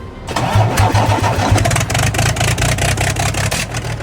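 Cummins ISX inline-six diesel engine starting about a third of a second in and running loudly with rapid pulses, its exhaust manifold unbolted. This is a test run to find which cylinder blows out, with a blown head gasket or dropped liner in cylinder 3 or 4 suspected. Near the end the loud pulsing eases to a steadier run.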